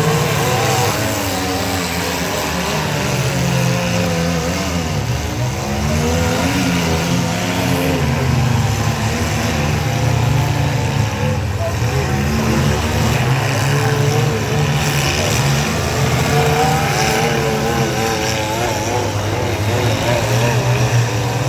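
Engines of several mid-size demolition derby cars running and revving together, their pitch rising and falling as they accelerate and back off.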